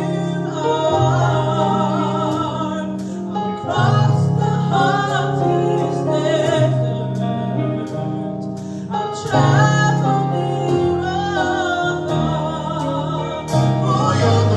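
Live gospel praise band playing with singers, a female voice prominent over sustained bass and guitar.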